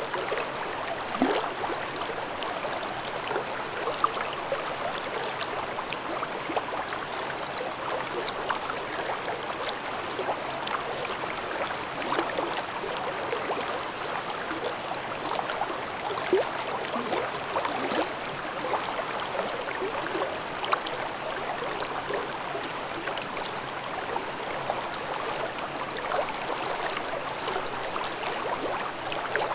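A mountain stream babbling over rocks: steady rushing water with many small irregular splashes and gurgles, an occasional louder splash standing out.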